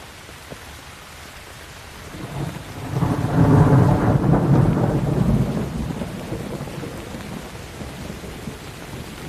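Steady rain with a roll of thunder: about two seconds in a deep rumble builds, peaks, then fades slowly under the rain.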